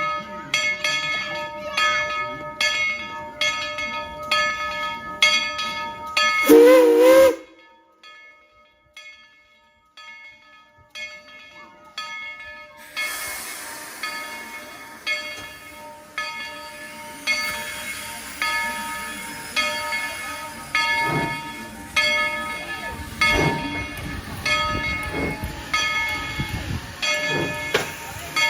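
Steam locomotive bell ringing, about two strokes a second. About seven seconds in, a short, wavering steam whistle blast sounds. From about halfway through, steam hisses under the bell, which keeps ringing.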